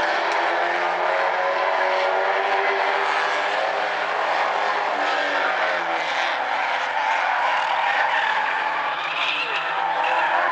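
Several Stinger 8 figure-8 race cars running at racing speed: a steady blend of overlapping engine notes, each slowly rising and falling in pitch as the cars accelerate and back off through the course.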